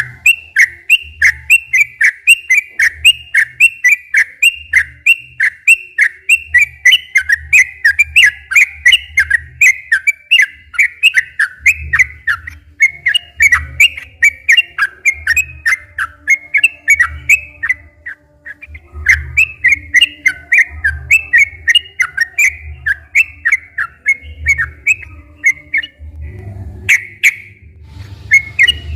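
Yellow-vented bulbul (trucukan) singing a long, fast string of bubbling whistled notes, about three or four a second, pausing briefly twice. Soft low thumps sound under the song.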